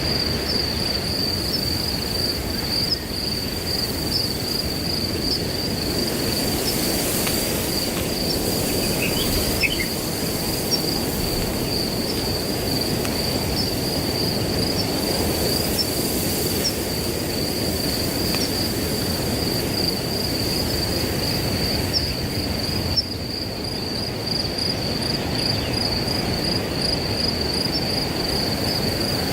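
Crickets trilling steadily at a high pitch over wind blowing through grass, which makes a low, even rushing noise beneath.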